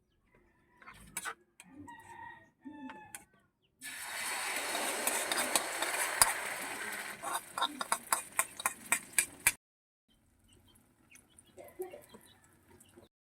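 Chickens clucking. In the middle comes a few seconds of loud rushing noise, ending in a quick run of sharp clicks.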